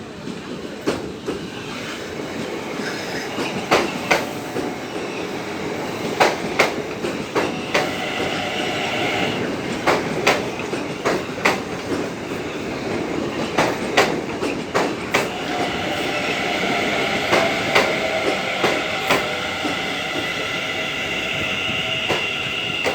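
Línea Mitre commuter train running into a station: wheels clack over rail joints in an uneven series of sharp knocks over a steady rumble that slowly grows louder. A high steady wheel squeal comes in about a third of the way through and again, stronger, through the last few seconds.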